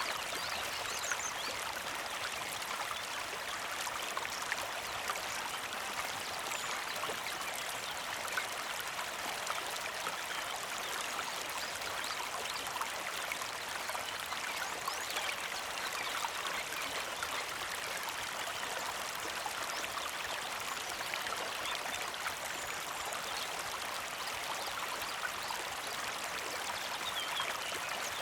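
Small creek flowing steadily, a continuous trickling and splashing of water, with a few faint high bird chirps.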